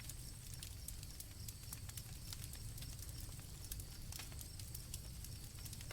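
Faint campfire crackling, with scattered small pops over a low steady rumble of the fire, and crickets chirping steadily in the background.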